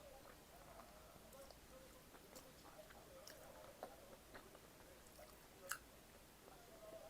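Faint close-up chewing: soft wet mouth sounds with scattered small clicks, and one sharper click a little before the end.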